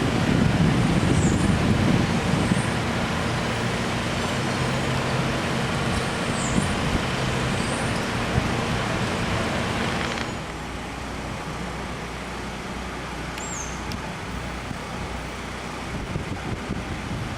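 Street traffic ambience: a steady wash of vehicle noise with an engine's low hum. The background changes abruptly and gets quieter about ten seconds in.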